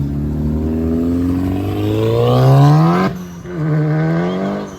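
A car engine revved with its exhaust: the revs climb steadily for about three seconds, drop suddenly as the throttle is let go, then a shorter second rev rises and falls.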